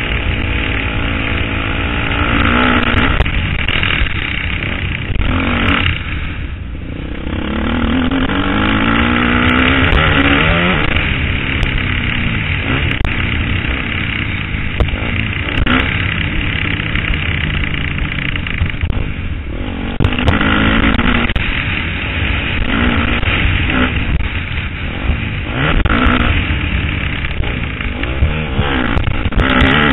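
KTM 250 SX-F single-cylinder four-stroke motocross engine being ridden hard, its revs repeatedly climbing and dropping as the throttle is worked and gears are changed. The revs fall away briefly about six seconds in before picking up again. A steady low rumble sits under the engine.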